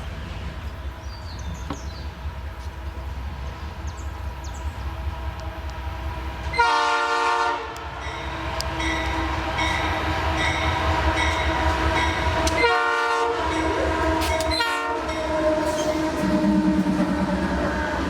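Freight train's locomotive sounding its multi-note air horn: a loud blast of about a second, a shorter second blast some five seconds later and a brief toot just after, over the steady rumble of the passing train.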